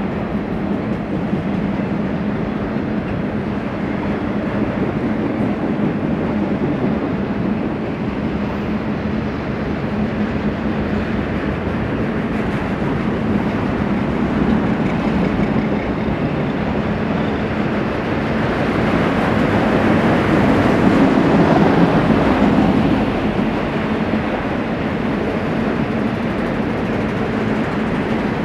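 BNSF freight train rolling past: a continuous rumble of wheels on rail that swells louder for a few seconds about two-thirds of the way through.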